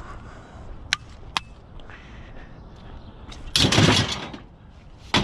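Two sharp clicks, then a loud clatter of hard objects being handled lasting just under a second, with another clatter starting right at the end.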